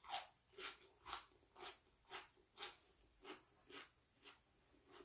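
Crunching of a raw cucumber stick being chewed, about two crisp crunches a second, growing fainter.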